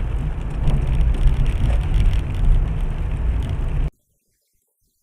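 Loud, steady rumble of a moving car as picked up by a dashcam: low road and wind noise with a few faint knocks. It cuts off abruptly about four seconds in, leaving near silence.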